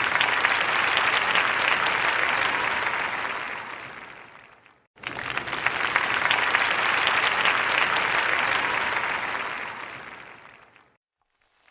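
A crowd applauding, in two separate stretches of dense clapping: the first fades out to a brief silence about five seconds in, then a second burst of applause starts abruptly and fades away again near the end.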